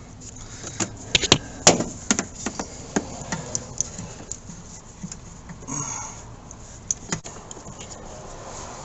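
Handling noise from a length of rubber hose being pulled out and routed around an engine bay: a run of sharp knocks and clicks, busiest about one to two seconds in, then scattered lighter taps and a brief rustle near the middle.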